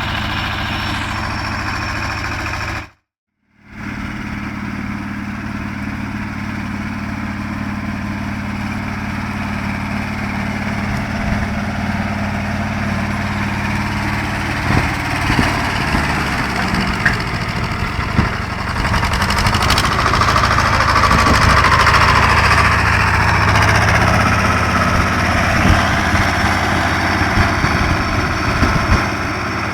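BJR Falcon 40 articulated tractor's engine running steadily, getting louder for a few seconds past the middle as it works. Scattered short knocks and clunks come through in the second half, and the sound cuts out completely for under a second about three seconds in.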